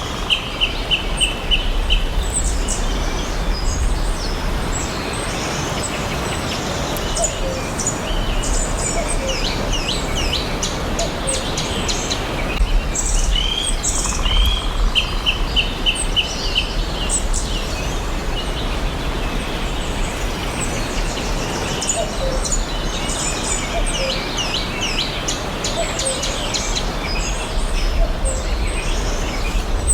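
Songbirds chirping and singing together over a steady background hiss and low rumble. A quick run of short repeated notes comes just after the start and again about halfway through.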